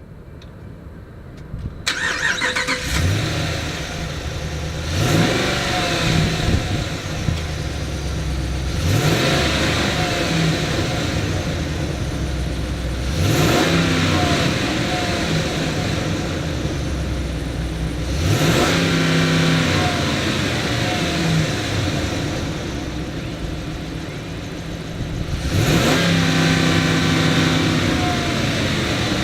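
2012 RAM 2500 pickup engine starting about two seconds in, then idling and being revved about five times, each rev rising and falling back to idle.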